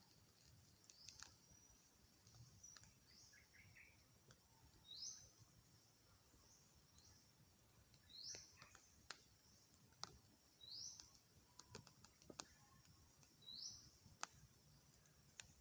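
A bird repeating a short, rising chirp about every three seconds, faint, over a steady high-pitched hum and scattered sharp clicks.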